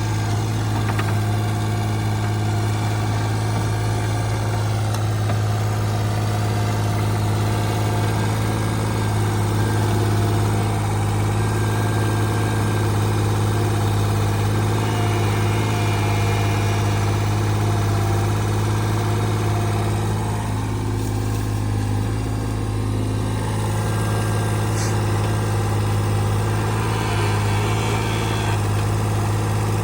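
Diesel engine of a CAT 303CR mini excavator running steadily at idle, with a constant low hum.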